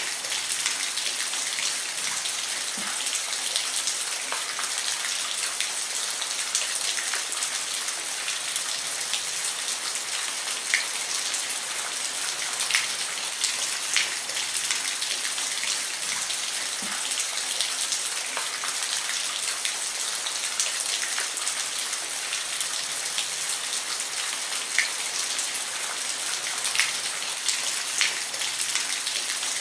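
Steady rain falling on a roof: an even hiss with scattered sharper drips and taps of individual drops.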